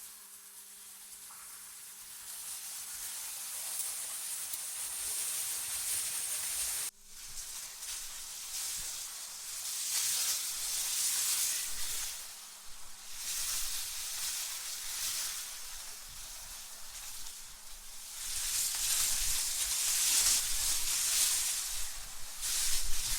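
AI-generated wind-like hiss, mostly high-pitched, rising and falling in gusts, with a sudden break about seven seconds in. A faint steady low hum runs under it until about eighteen seconds in.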